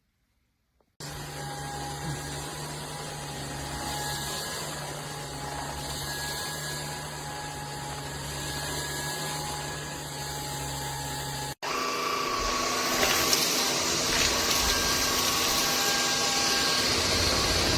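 SKIWEC 600 W cordless stick vacuum cleaner running steadily, its motor switching on about a second in. After a split-second break a little past the middle it runs on louder, with more hiss.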